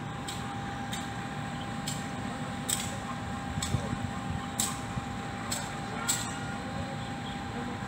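Passenger train running slowly, heard from on board: a steady low rumble with a faint constant whine, and sharp clicks about once a second as the wheels cross rail joints.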